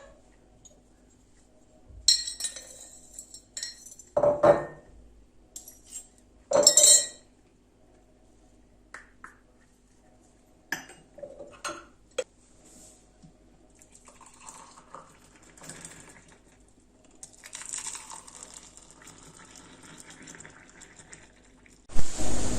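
Dishes and cutlery clinking and clattering in a kitchen, with a few louder knocks early on and sparser light taps later, then a soft steady hiss near the end.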